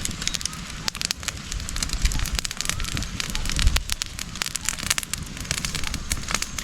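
Open cooking fire crackling: many irregular sharp pops over a steady hiss.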